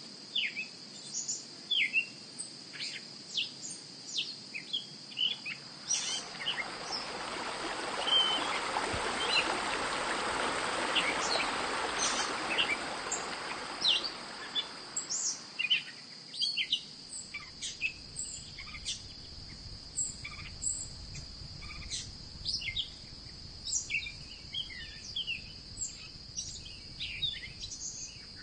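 Outdoor birds chirping with many short calls, over a steady high insect buzz. A broad rushing sound swells up a few seconds in and fades away about halfway through.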